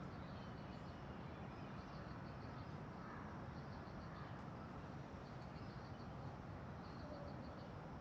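Faint outdoor background noise. Over it, a high, quick chirp of four to six clicks repeats about every one and a half to two seconds.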